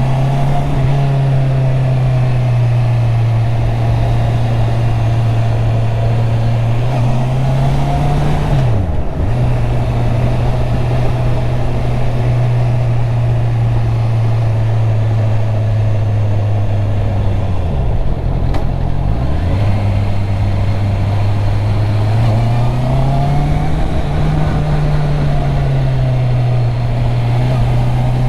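Honda CB650R's inline-four engine on its stock exhaust, running steadily under way on the road. The engine note drops sharply and picks back up about nine seconds in, dips again around eighteen seconds, and rises briefly a few seconds later as the throttle changes through the bends.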